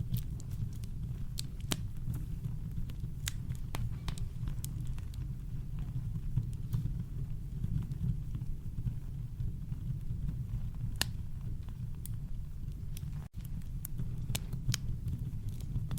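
Campfire crackling: scattered sharp pops and snaps over a steady deep rumble of brown noise. The sound cuts out for a split second about thirteen seconds in.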